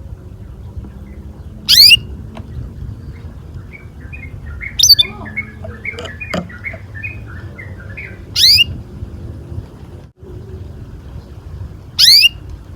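Canary calling: four loud, short chirps, each sweeping down in pitch, about every three and a half seconds, with softer twittering between them in the middle stretch and a steady low hum underneath.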